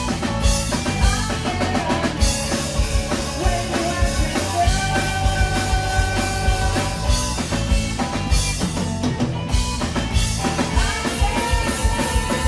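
Live rock band playing a song: drum kit with kick drum and cymbals driving a steady beat under guitar, with long held notes through the middle.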